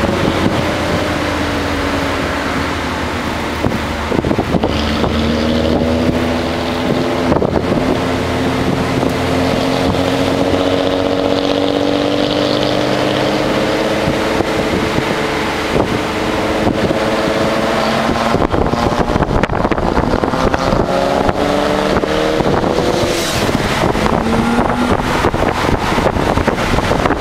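Nissan Altima SE-R's 3.5-litre V6 engine heard from inside the cabin, its note rising and falling with the revs while driving, over steady road and wind noise. The pitch climbs through the first half, drops back a little after halfway, then climbs again near the end.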